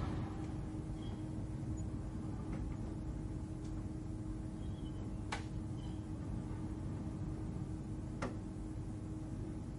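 Steady low ambient hum of a space-station cabin soundscape, with a held low tone under it. Two sharp soft clicks sound about five and eight seconds in, with a few faint high blips.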